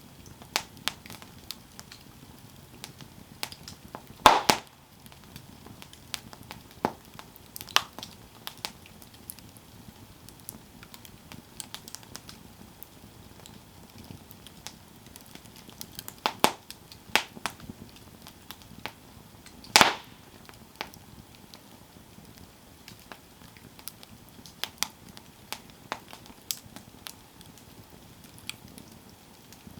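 Campfire burning, its wood crackling and popping at irregular intervals over a faint steady hiss, with two louder pops about four seconds in and near twenty seconds.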